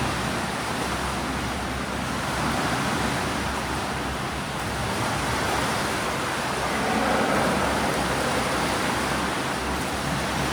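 Swimming pool ambience: a steady wash of water splashing and churning from swimmers doing breaststroke drills.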